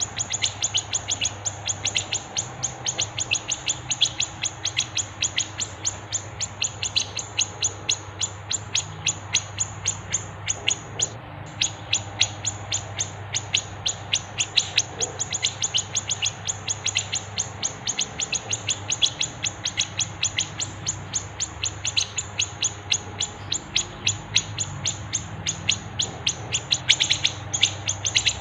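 Small songbirds chirping in a rapid, unbroken series of sharp high notes, several a second, from a masteran song-training recording that combines grey-cheeked bulbul (cucak jenggot), sparrow (gereja) and siri-siri calls. A faint low hum runs underneath.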